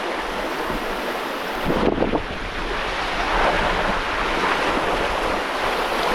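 Water rushing and splashing along the hull of a sailboat under way at about 7 knots, with wind buffeting the microphone. A louder splash comes about two seconds in.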